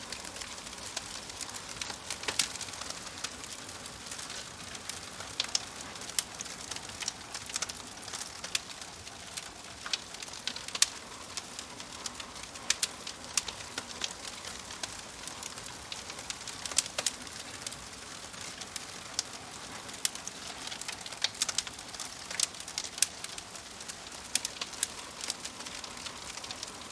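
Fire burning in a fireplace, crackling steadily with irregular sharp pops over a constant hiss.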